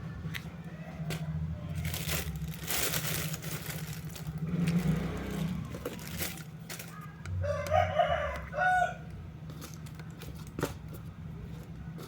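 A crowing call in a few short pitched parts, about eight seconds in, over a steady low hum. A burst of hissing noise comes a few seconds earlier.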